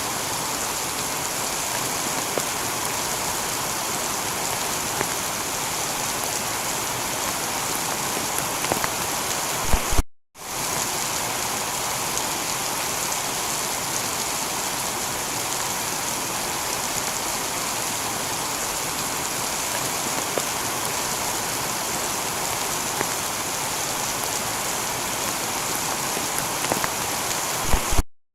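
Heavy rain falling steadily on a tiled roof, a dense even hiss with scattered drop clicks. The sound cuts out completely for a moment twice, about ten seconds in and near the end, each time just after a brief louder bump.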